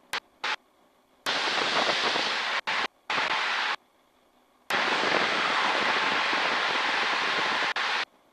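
Cockpit noise of a North American SNJ-6 (T-6 Texan) in flight, a steady rushing hiss, heard over the aircraft's intercom. It cuts in and out abruptly in several blocks, with near silence between, the way a voice-activated intercom mic opens and closes; the longest stretch runs through most of the second half.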